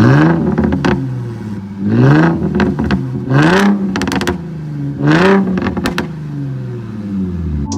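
Single-turbo Infiniti G35's 3.5-litre V6 being revved four times in quick blips. Each rev rises in pitch and falls back with a burst of hiss and sharp crackles at its peak, then the engine settles to a steadier note near the end.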